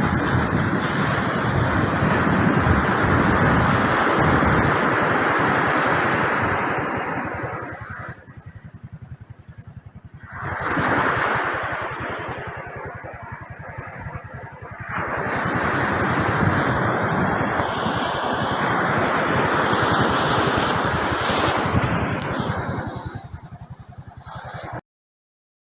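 Surf breaking and washing up the beach, a loud rushing that swells and eases, dropping away twice in the middle, then cutting off abruptly near the end.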